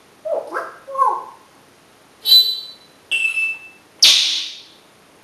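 African grey parrot calling in a string of short non-word sounds: two low mumbled sounds, then two whistled notes, then a loud, harsh squawk about four seconds in.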